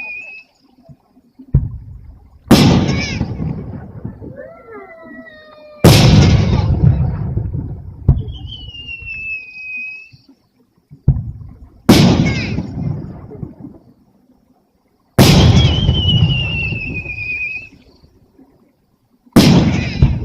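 Aerial fireworks shells bursting overhead: seven sharp booms a few seconds apart, each followed by a long rolling rumble that dies away. Thin high whistling tones, falling slightly in pitch, sound between some of the bursts.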